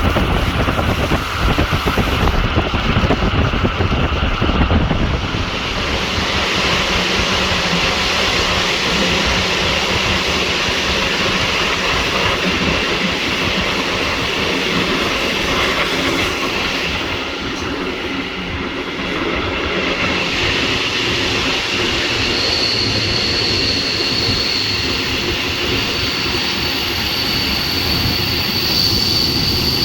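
Regional train running along the track, heard on board: a steady rumble and rail noise. A thin high whine comes in past the middle.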